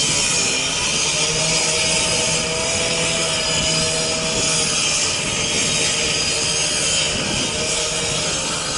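High-powered circular saw cutting through a car's sheet-metal hood, running continuously with a steady motor pitch that wavers slightly under load. The hood is being cut in half to reach the burning engine, typical when a fire has melted the hood latch.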